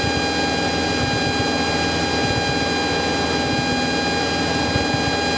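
Cessna 172's engine and propeller droning steadily in cruise flight, heard inside the cabin as an even roar with a steady high whine over it.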